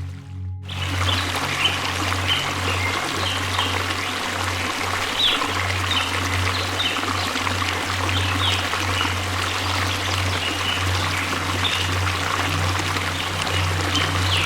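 Waterfall, a steady dense rush of falling water, with short bird chirps scattered over it and a steady low hum underneath. In the first half-second the sound is dull and thin before the full rush comes in.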